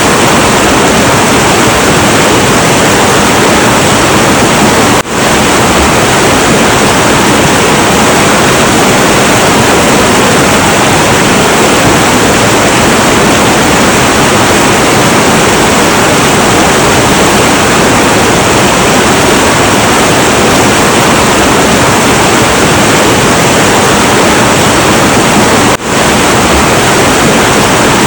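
Heavy, turbulent river water rushing in a steady, dense roar. The sound drops out for an instant twice, about five seconds in and again near the end.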